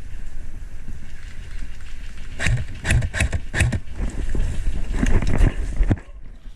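Rumbling handling and wind noise on a body-worn camera, with a quick run of about five sharp clicks or knocks about halfway through and a couple more near the end.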